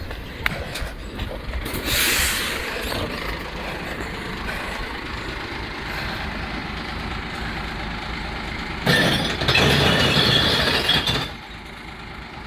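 Glass collection truck's engine running, with a short rush of noise about two seconds in and a louder, crashing rush of noise lasting about two seconds near the end.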